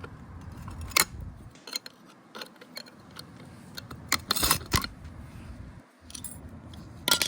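Scattered sharp metallic clicks and clinks of outboard propeller hardware being handled, with a small cluster of knocks midway.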